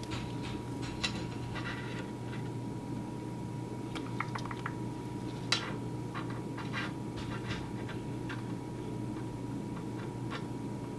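Small steel cubes being set down and nudged into place against each other, a scattering of light metallic clicks and taps, over a steady hum with a faint high tone.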